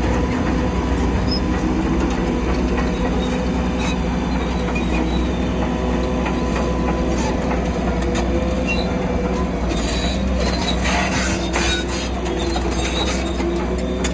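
A Shantui crawler bulldozer working, its diesel engine running steadily while the steel tracks squeal and clank, with a burst of clanking about ten seconds in.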